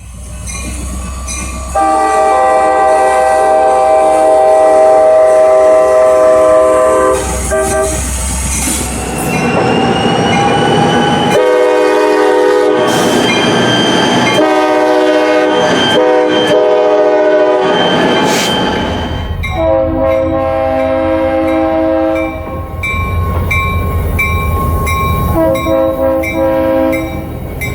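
A train's multi-note air horn sounding several long blasts for a grade crossing, its chord changing pitch between the first and second blasts. Under the horn are the rumble and wheel clatter of the train, and from about two-thirds of the way in a fast, regular ticking that fits a crossing bell.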